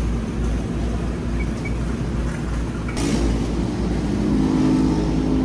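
Steady low rumble of road and engine noise inside a moving car. From about three seconds in, a few faint steady tones sit on top of it.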